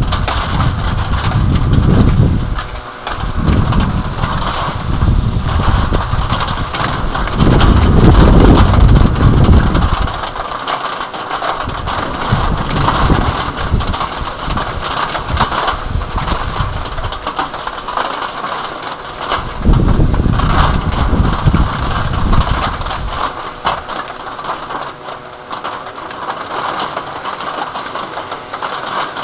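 Heavy thunderstorm rain pelting down in a dense, crackling hiss, with strong wind gusts buffeting the microphone in low rumbling surges: two long ones at the start and another about twenty seconds in.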